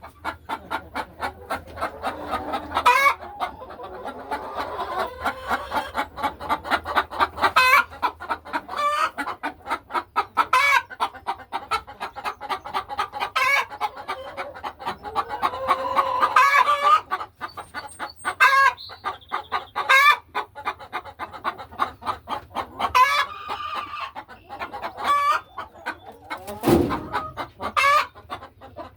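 Laying hens clucking continuously, with a loud, sharp squawk breaking out every two or three seconds. A dull thump near the end.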